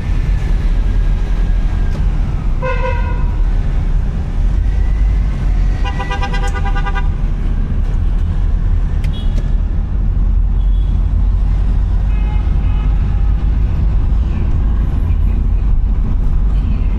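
Steady low rumble of a car driving through traffic, with two vehicle horn toots: a short one about three seconds in and a longer one about six seconds in.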